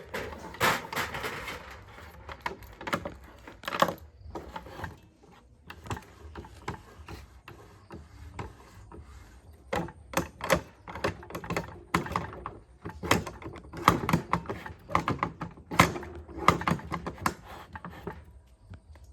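A run of irregular sharp knocks and clicks of hard objects, several a second and densest in the second half.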